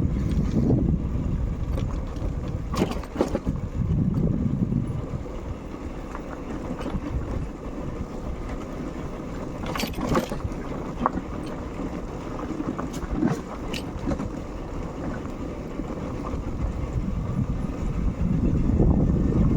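Motorcycle riding along a road, its engine and tyre noise mixed with wind rushing over the microphone. The wind swells near the start and again near the end, and a few sharp clicks or rattles come through.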